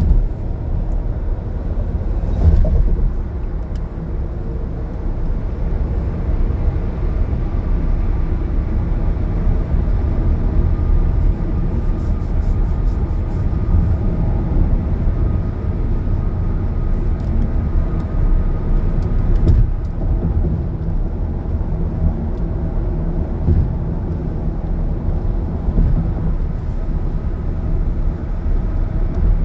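Car driving on a highway: steady road and engine rumble, with a few brief clicks.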